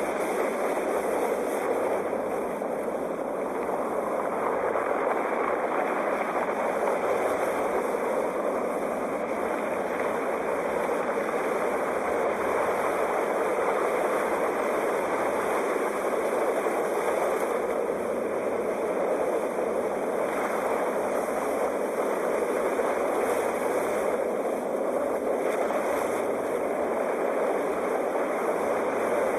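Sea waves washing: a steady rush of surf that swells and eases gently every few seconds.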